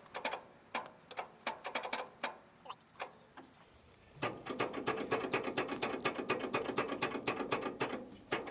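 Tractor engine being cranked by its starter and not catching: scattered clicks at first, then about four seconds in a fast, steady clatter of cranking.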